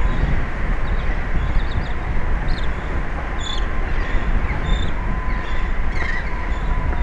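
Steady rumbling wind-and-sea noise on an outdoor microphone, with a thin steady whine under it. Short high chirps come a handful of times.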